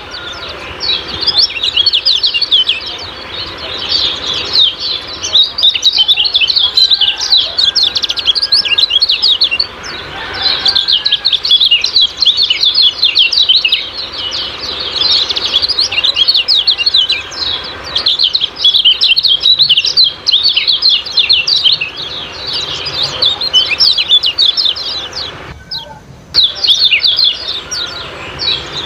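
Common iora (kecial kuning) giving rapid 'ciak-ciak' chattering calls: dense runs of quick high chirps with brief pauses between them, and one short break about three-quarters of the way through.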